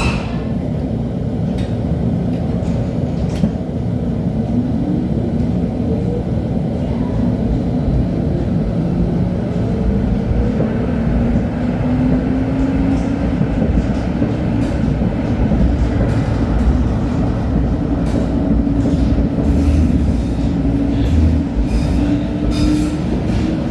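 LHB TW2000 Stadtbahn light-rail car running on track: a steady rumble of wheels and running gear with a motor whine that climbs slowly in pitch as the car gathers speed, and scattered clicks from the rails.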